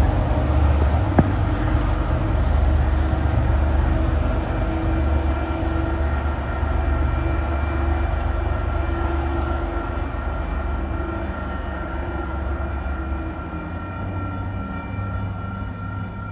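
MBTA commuter rail train running past on diesel power: a heavy low engine rumble with rail noise that slowly fades as it pulls away. There is a single sharp click about a second in, and thin steady high whining tones come in about halfway through.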